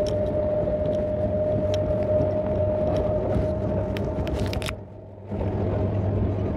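Electric MEMU train running at speed, heard from an open window or door: steady running noise with a constant high tone and scattered sharp clicks from the wheels and track. The sound dips briefly about five seconds in.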